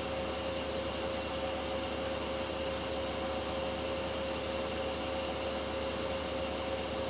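Beko WTK104121W front-loading washing machine in its spin cycle, the drum spinning at a steady high speed with an even whine and rushing hum that holds constant.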